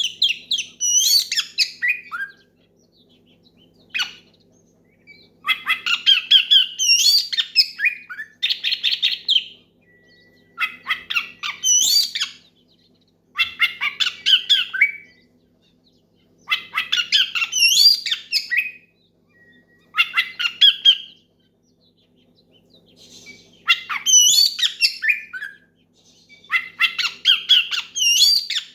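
Oriental magpie-robin (kacer) singing loud, varied phrases of rapid whistles and harsh notes, a new burst every few seconds. This is the loud challenging song used to call out rivals.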